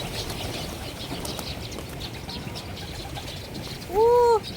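A flock of birds being fed, with faint scattered chirps over steady outdoor background noise. About four seconds in comes one short, loud call that rises and falls in pitch.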